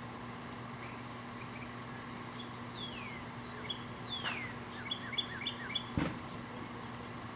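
Microwave oven running with a steady mains hum while a bird calls: two falling whistles, then a quick run of four short chirps. A single sharp pop or crack comes about six seconds in.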